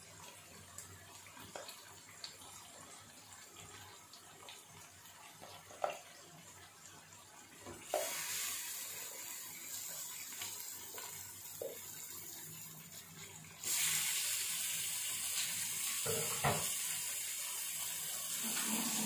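Chicken pieces frying in hot oil with onions and ginger-garlic paste in a metal kadhai, a steady hiss of sizzling. The hiss jumps up about eight seconds in and again, louder, near fourteen seconds as more chicken goes into the pan. A few short knocks of chicken or spoon against the pan come in between.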